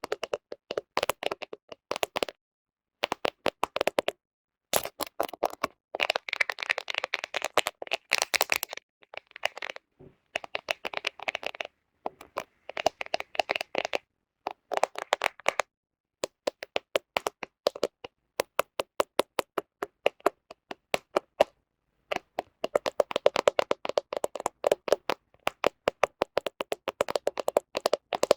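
Fingernails rapidly tapping and scratching on the camera right at the microphone: quick runs of sharp clicks broken by short pauses, thickest from about six to nine seconds in and again from about twenty-three seconds on.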